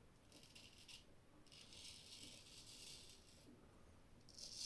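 Filarmonica straight razor scraping through about three days of stubble in separate strokes, faint and crisp. A short stroke comes at the start, a longer one of about two seconds in the middle, and another begins near the end, cutting cleanly on a thin lather.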